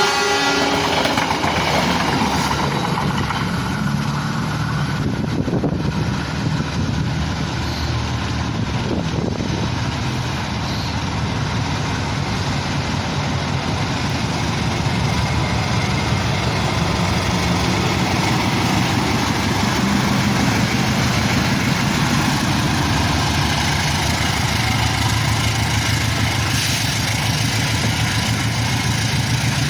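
Diesel locomotive engine running steadily with a deep, even drone and a broad rumble. A horn note cuts off in the first moment.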